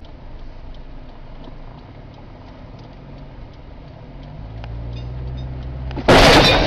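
Car engine and road hum with faint ticking, then a sudden loud crash about six seconds in: a vehicle collision.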